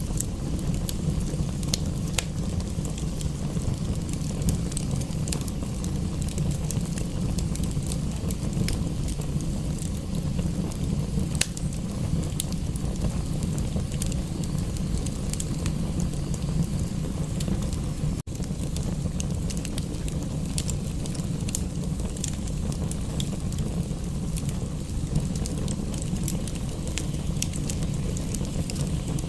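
Wood fire crackling, with frequent small pops and snaps over a steady low rumble. The sound dips out for an instant about two-thirds of the way through.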